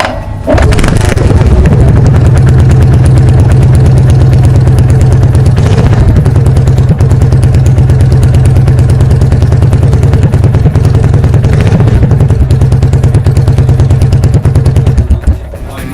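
Yamaha SR400's single-cylinder engine running at a steady idle through its exhaust, starting about half a second in and stopping shortly before the end.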